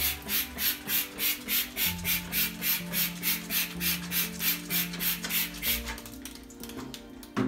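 Rapid back-and-forth rubbing strokes, about three a second, like scrubbing, stopping about six seconds in. Soft background music plays underneath.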